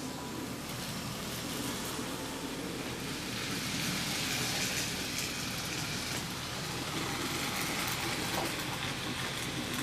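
HO-scale model train rolling past on the track: a steady whirring rush of wheels and motor that grows louder around the middle and then eases off.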